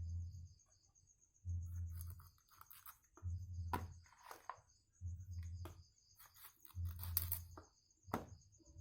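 Night insects chirping steadily in a rice field, with a low rumble that repeats about every second and a half to two seconds and a few sharp clicks.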